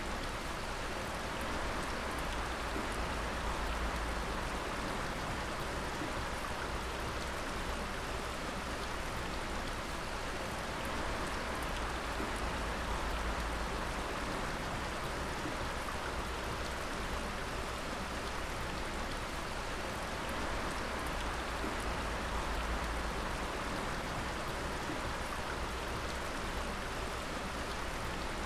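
Many drops of water falling and splashing in a dense, steady stream of noise that does not change.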